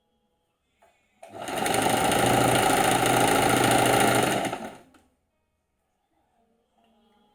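Electric sewing machine running at speed for about three and a half seconds, its needle stitching rapidly. It starts about a second in and winds down to a stop.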